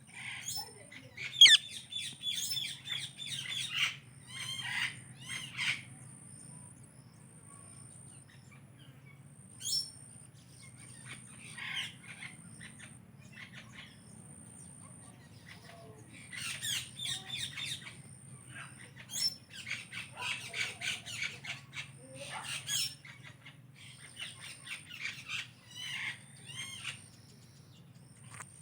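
Pet Psittacula parakeets (Indian ringneck and Alexandrine) calling in several short bouts of quick chatter and calls, with pauses of a few seconds between bouts.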